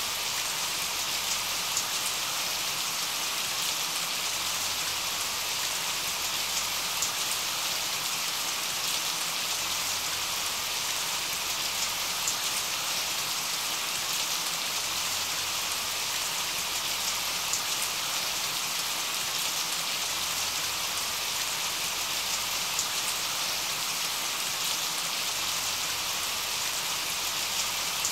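Steady rain falling: a dense, even hiss with scattered individual drop taps.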